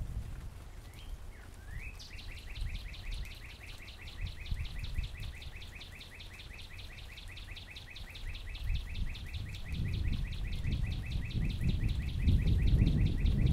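A songbird singing one long, even trill of rapidly repeated notes lasting about eleven seconds, after a couple of short slurred notes. A low background rumble underneath grows louder near the end.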